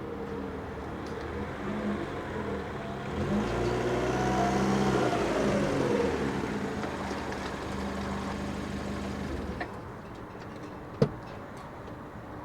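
Abarth 595 Turismo's turbocharged 1.4-litre four-cylinder heard from inside the cabin, its revs rising and then falling in the middle. The engine sound falls away near the end, followed by a single sharp click.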